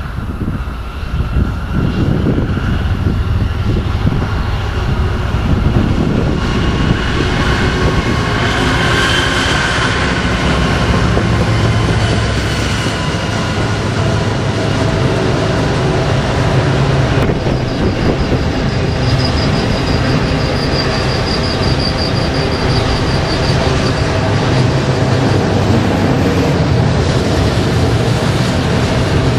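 Westbound BNSF autorack freight train, led by GE ES44DC diesel locomotives, running down the grade and passing close, its autorack cars rolling by with steady rail rumble. A thin high wheel squeal comes in for several seconds past the middle.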